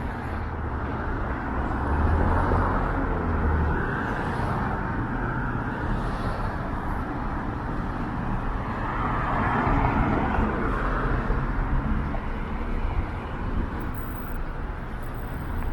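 City street traffic: cars passing with a steady tyre-and-engine hiss. A low rumble in the first few seconds and another vehicle swelling past about ten seconds in.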